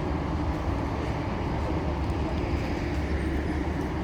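Charter train moving slowly past: a steady low rumble.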